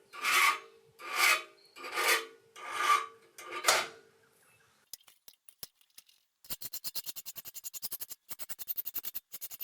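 Hand file drawn across the forged steel hook to sharpen its point: about five long rasping strokes, roughly one a second, with a faint metallic ring. After a short pause, a fast, even ticking of about eight clicks a second begins in the second half.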